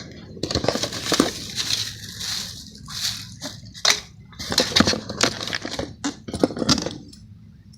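Unboxing handling of a mini bench grinder and its packaging: irregular crinkling, rustling and sharp knocks of plastic and cardboard being pulled and moved about.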